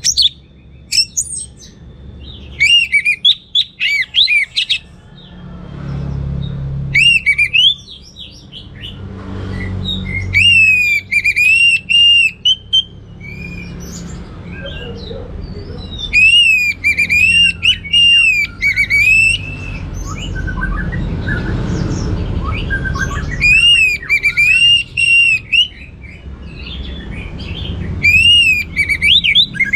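Orange-headed thrush (anis merah) singing vigorously in repeated bursts of rapid, varied chirping and whistled phrases, with short pauses between them. A low background rumble runs underneath.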